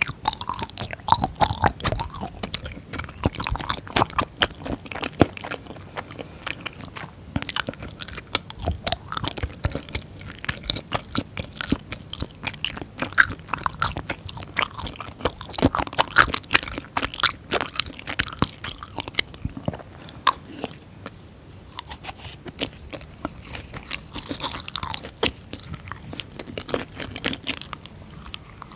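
Close-miked chewing of tteokbokki with flat tofu noodles in spicy sauce. It is a continuous run of wet chews and small sharp mouth clicks.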